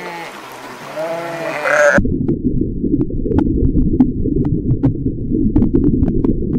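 A bleating farm animal gives a couple of calls in the first two seconds. The sound then cuts abruptly to a dense low rumble with scattered sharp clicks, from a different recording.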